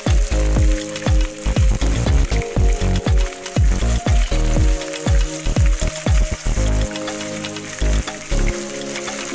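Cornstarch-coated chicken pieces frying in shallow hot oil, a steady crackling sizzle. Background music with a regular beat plays under it.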